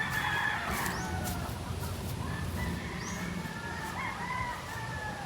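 A rooster crowing twice: the end of one long crow fading out about a second in, then another drawn-out crow from about two seconds in that lasts some three seconds. Short, high, rising bird chirps come in between.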